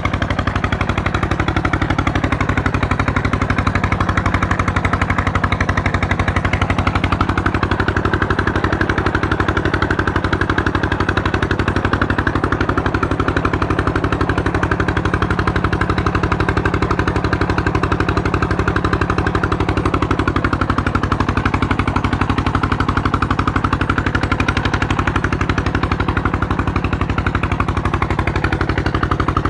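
Tube-well diesel engine running steadily at a constant speed, its exhaust beating in a rapid, even putt-putt.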